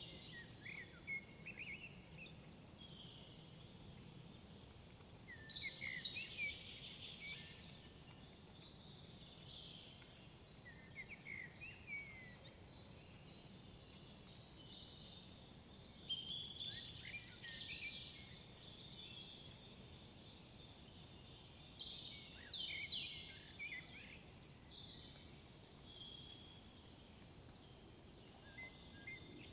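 Songbirds singing in woodland, several birds giving short trilling phrases every few seconds over faint steady background hiss.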